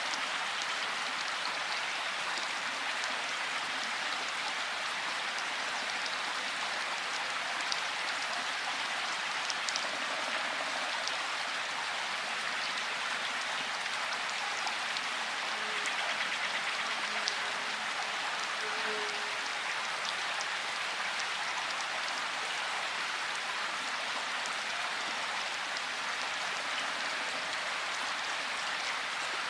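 Steady rain shower falling, an even hiss of rain with scattered individual drop ticks through it.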